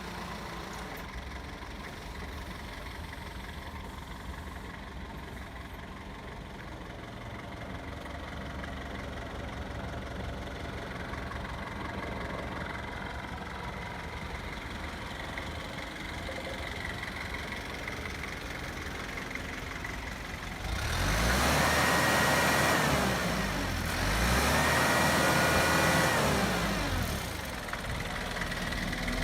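Sumitomo 3-ton forklift engine idling steadily, then revved up twice for about two seconds each, a high whine riding on each rise, before it drops back to idle.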